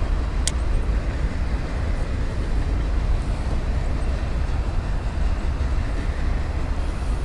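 Passing train rumbling steadily, a heavy low rumble under a wide even noise. About half a second in, a single sharp click from the spinning reel as its bail is closed after the cast.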